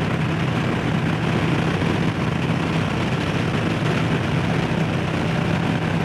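Harley-Davidson Low Rider S's 117 V-twin engine running steadily at cruising speed under the rush of riding wind on the microphone.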